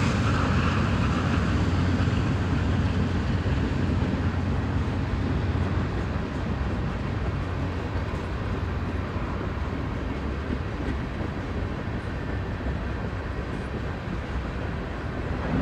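Norfolk Southern mixed freight train rolling past, its cars rumbling along the rails as the diesel locomotives at the head pull away; the sound slowly gets quieter.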